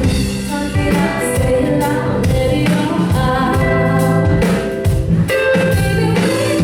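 A live pop song: a sung voice holding melodic notes over instrumental accompaniment.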